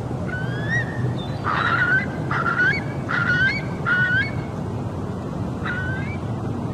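Curlew calling: a series of rising whistled calls. A longer one comes first, then four shorter ones in quick succession, and one more near the end, over a steady low background noise.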